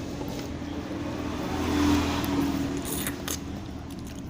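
Eating sounds, biting and chewing on food, with a low motor-like hum that swells and fades about two seconds in, and a few small clicks near the end.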